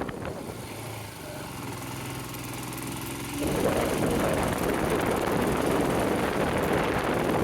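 Hero XPulse 200 4V's single-cylinder engine running steadily, then about halfway through a sudden rush of loud wind noise on the microphone as the bike rides on.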